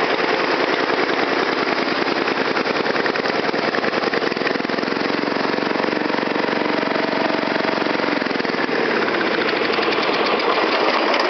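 Briggs & Stratton single-cylinder lawn tractor engine running steadily through a vertical stack exhaust fitted with a muffler.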